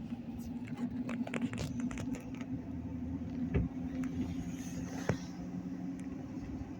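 Steady low hum of a car heard from inside the cabin, with scattered light clicks and taps; a sharper knock comes about three and a half seconds in and another about five seconds in.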